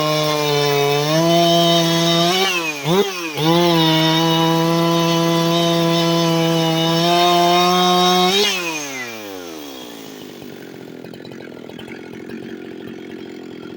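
Husqvarna 371XP two-stroke chainsaw, just rebuilt with a new OEM cylinder and single-ring piston, running at full throttle through its first cuts. Its pitch dips sharply and recovers about three seconds in, holds steady, then the revs fall away at about eight and a half seconds.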